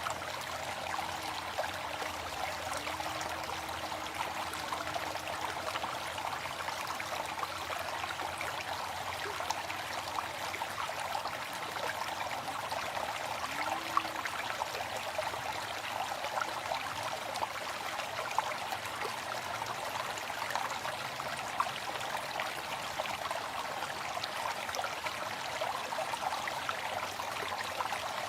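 Waterfall: a steady, even rush of falling water, with a few sharper splashes standing out now and then.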